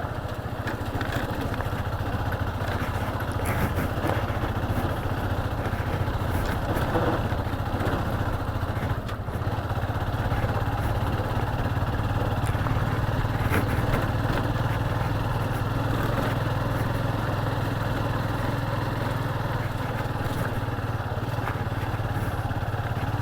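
Motorcycle engine running steadily at low revs, with a few short knocks and rattles.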